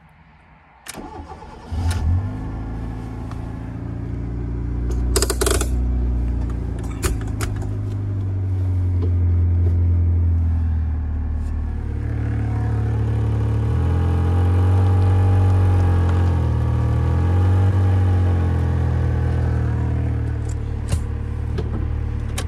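Fiat Panda 4x4's engine starting about two seconds in, then running, its pitch rising and falling in the second half as the car pulls against a handbrake that does not hold the rear wheels. A brief sharp rattle about five seconds in.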